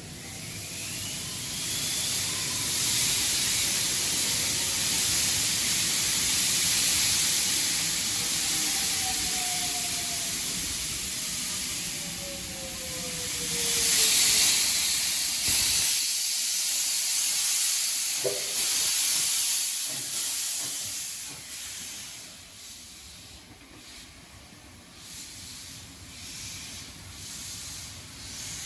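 Steam locomotive with a loud, steady steam hiss, over faint tones that slide down in pitch. The hiss cuts off abruptly about halfway through, leaving quieter noise.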